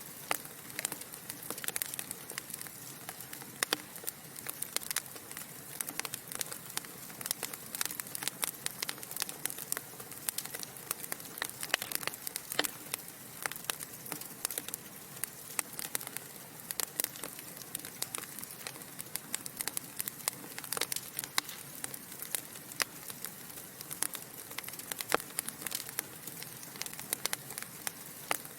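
Wood fire burning in a fireplace: a soft steady hiss with many irregular sharp crackles and pops from the burning logs.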